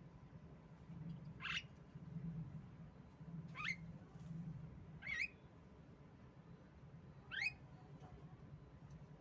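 Javan myna (jalak kebo) calling: four short, sharply rising whistled calls about two seconds apart, over a low steady hum.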